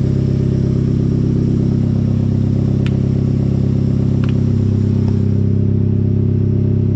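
Hyundai Genesis Coupe four-cylinder engine idling steadily through its new aftermarket exhaust, with a few faint clicks. The exhaust has a small leak at a flange gasket.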